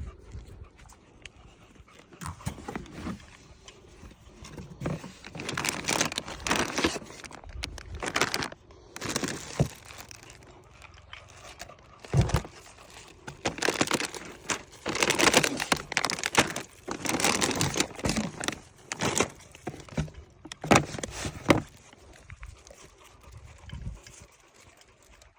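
Packaging crinkling and rustling in irregular bursts, with some tearing, as the gift packs are handled or torn into.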